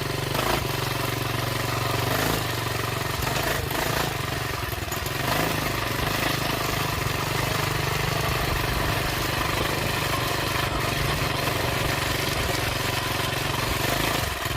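Coleman CT200U-EX minibike's small single-cylinder four-stroke engine running steadily just after starting, with small shifts in engine speed about two and five seconds in.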